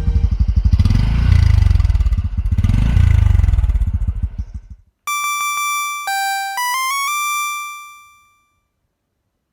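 Honda CT125 Hunter Cub's 125 cc single-cylinder engine running under way, the revs rising and easing off, then fading out about five seconds in. A series of electronic beeps follows: several short high beeps, then a few stepped tones ending in one held tone that dies away.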